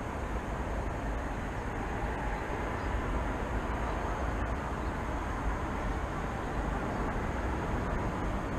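Steady city background rumble of traffic: an even, unbroken noise with most of its weight in the low end and no separate events standing out.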